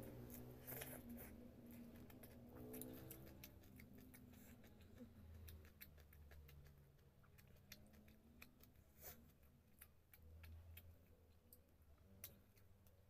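Faint close-up eating sounds: chewing of rice and fish with many small, sharp lip-smacking and mouth clicks.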